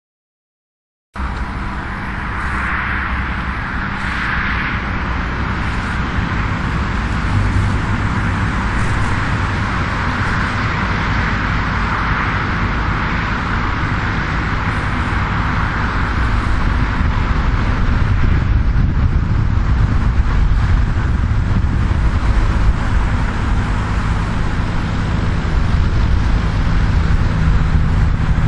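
Same Silver 110 tractor's diesel engine running steadily under load while pulling a four-furrow plough, growing gradually louder. The sound cuts in abruptly about a second in.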